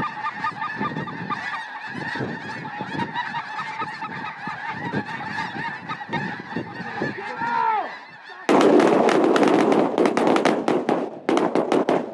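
A large flock of snow geese and white-fronted geese calling overhead, many overlapping high honks and yelps. About two-thirds of the way in, a sudden loud rushing, rustling noise swamps the calls, stops for a moment and returns near the end.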